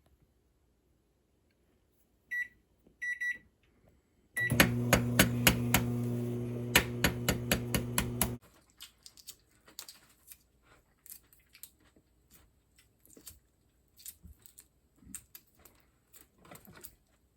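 Three short electronic beeps, then an appliance hums steadily with rapid clicking for about four seconds and stops suddenly. Faint clicks and rustling follow.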